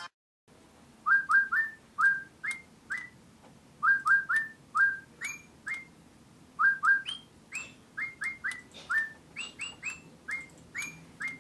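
Digi Birds electronic toy bird chirping: a string of short, quick, upward-sliding tweets, often in pairs or triplets.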